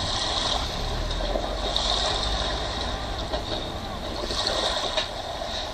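Jet ski engines running out on the water, a steady rumble whose higher hiss swells and fades a few times as the craft move.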